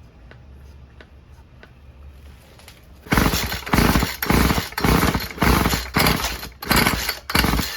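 Stihl FS36 string trimmer being pull-started. From about three seconds in, the recoil starter rope is yanked again and again, about one and a half to two pulls a second, and each pull gives a quick rasping whirr. The two-stroke engine turns over without firing: it won't start with the choke on, after the carburetor rebuild.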